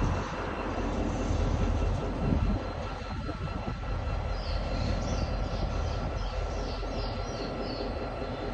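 Diesel locomotive running at a distance: a steady low rumble, with a few faint short high chirps in the middle.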